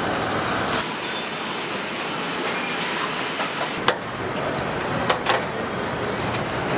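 Truck assembly-line machinery running with a steady noise, with a few sharp metallic knocks, one about four seconds in and two close together about a second later.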